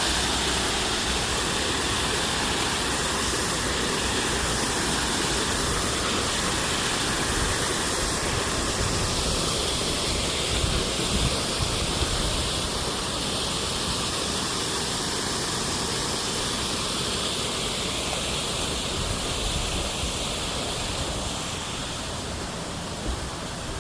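Water pouring steadily down a small artificial waterfall, a continuous splashing rush that grows a little fainter near the end.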